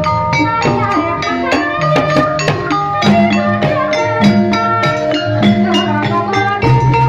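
Javanese gamelan music accompanying an ebeg horse-trance dance: struck tuned percussion ringing over a steady drum rhythm.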